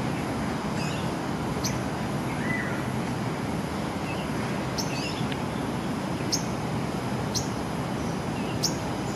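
Short, high, falling bird chirps, about one every second or so, over a steady rushing background noise.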